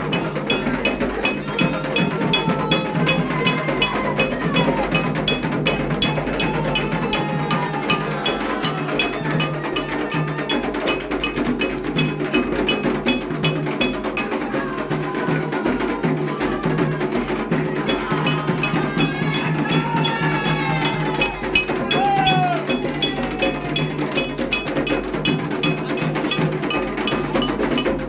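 Candomblé ritual music: atabaque hand drums and a metal bell struck in a fast, even rhythm, with voices singing over them.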